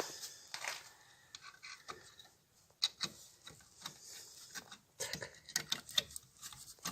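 Scattered light clicks, taps and scraping from hand work on drum-brake parts, brake shoes and return springs being handled and tried for fit.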